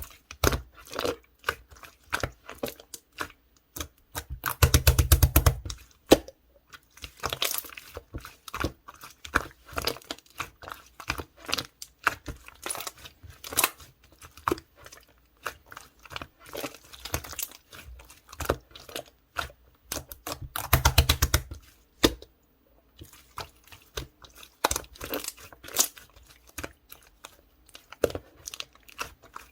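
Orange pearl slime being squished and stretched by hand, giving a steady run of sticky clicks and pops. Twice, about five seconds in and again about twenty-one seconds in, it breaks into a louder second-long burst of rapid crackling.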